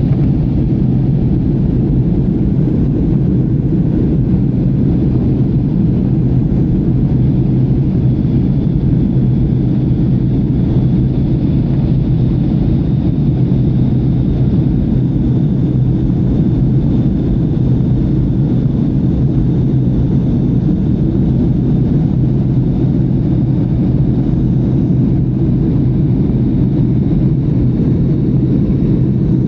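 Steady cabin roar of a Southwest Airlines Boeing 737 climbing after takeoff: a deep, even rumble of engines and airflow with a faint high whine above it.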